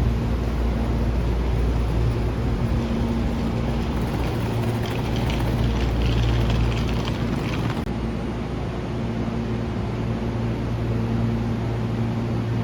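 A train running: a steady rumble with an even low hum, and more hiss for a few seconds in the middle.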